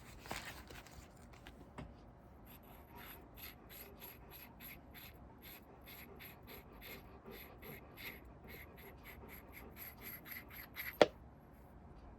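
A rapid run of short scraping or rubbing strokes, about three to four a second and quickening toward the end, then one sharp, loud click near the end.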